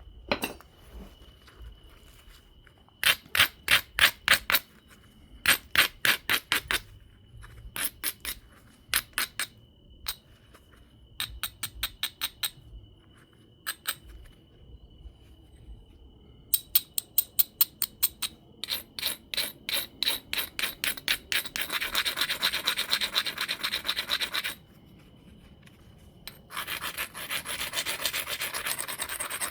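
Stone being rubbed back and forth along the edge of an obsidian biface in quick scratchy strokes: abrading the edge to prepare platforms for flaking. The strokes come in short bursts at first, then run together into longer stretches of steady scraping near the end.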